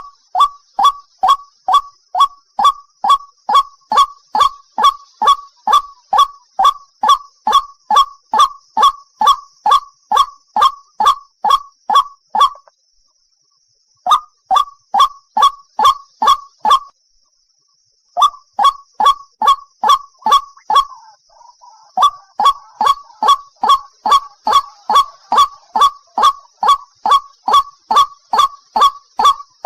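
White-breasted waterhen calling: a long run of loud, evenly repeated honking notes, about three a second, broken by two short pauses, one about halfway through and one a few seconds later.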